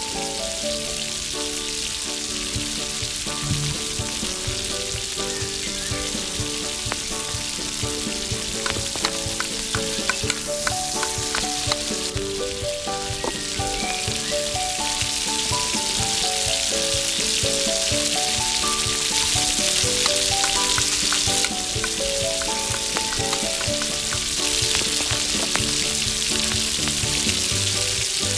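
Chopped vegetables sizzling and frying in a small iron wok, with light clinks of a spoon stirring against the pan, over soft melodic background music.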